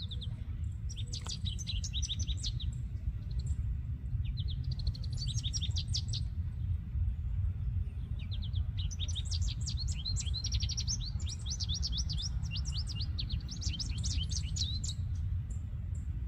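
A small songbird singing bubbly songs of rapid, high twittering notes in three bouts, the last one longest. A steady low rumble runs underneath.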